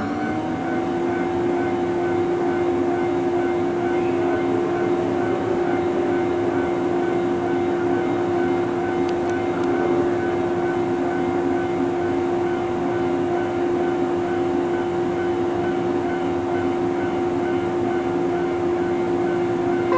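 Steady electrical whine from a standing 115 series electric train, settling onto one held pitch just after a rising whine at the very start, over a noisy hum.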